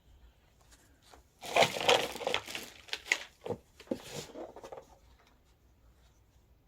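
Scraping and clicking of a nut being worked off the threaded front axle of a 12-volt ride-on quad, a few seconds of busy handling noise that then stops.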